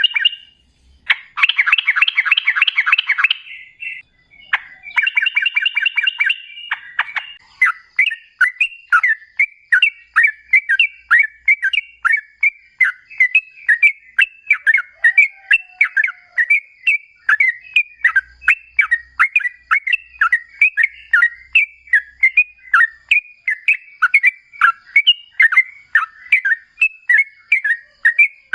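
Yellow-vented bulbul (trucukan) singing. A few short, rapid chattering phrases open it, then from about seven seconds in comes a long, unbroken run of quick bubbling notes, about three a second.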